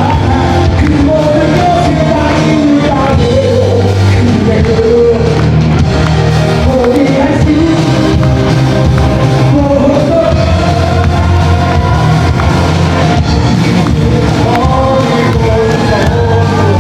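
Live rock band playing, with a lead singer's voice carrying the melody over the band.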